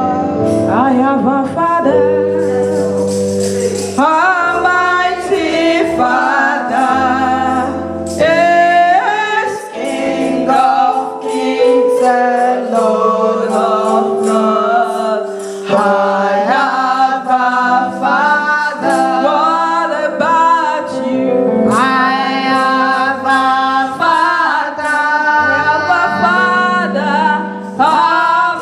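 Gospel choir singing a worship song, voices over sustained low accompanying notes.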